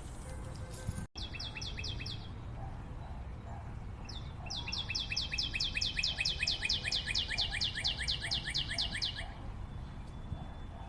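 A wild bird singing rapid trills of short descending notes, about five a second: a brief burst about a second in, then a longer run of several seconds that stops near the end.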